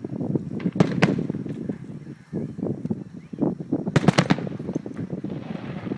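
Fireworks going off in rapid succession: a dense run of small bangs and crackling, with sharp loud cracks about a second in and a cluster of loud reports around four seconds in.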